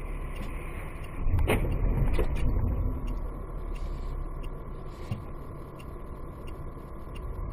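Steady low rumble of a car's road and engine noise heard from inside the cabin, with a few sharp knocks, the loudest about a second and a half and two seconds in.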